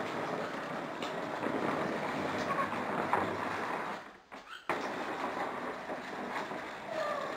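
A parrot imitating a jet airplane with a steady rushing hiss, broken by a brief gap about four seconds in. A short falling whistle comes near the end.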